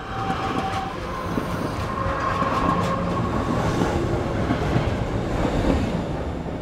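Train running along the track: a steady rumble and rush of wheels on rail with scattered clicks, and a thin whining tone over it for a couple of seconds.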